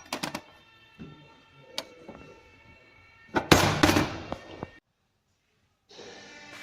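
Sharp metallic knocks and clanks of tools at work on a car's front suspension, then a louder clattering burst of noise lasting about a second and a half that cuts off abruptly.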